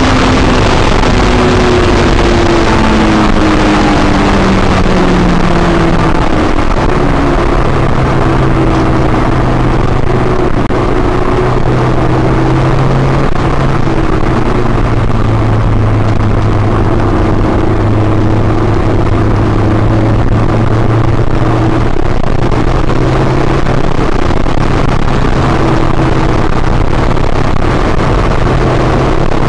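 Honda S2000's four-cylinder engine heard from inside the cabin while lapping a wet track, over a constant rush of tyre and wind noise. The engine note falls over the first six seconds as the car slows, then holds a steadier, lower note.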